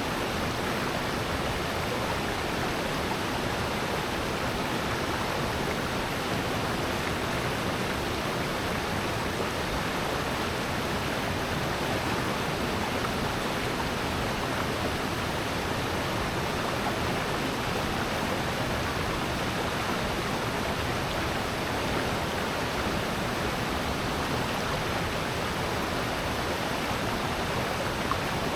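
Steady rush of flowing water in a mountain valley stream, an even, unbroken noise.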